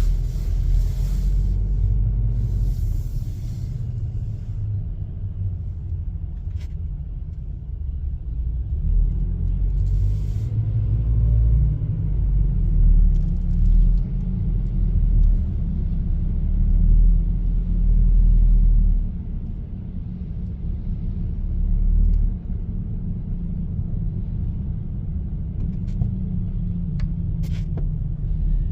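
Car driving: a low, steady rumble of engine and road noise that swells and eases, with a few brief clicks.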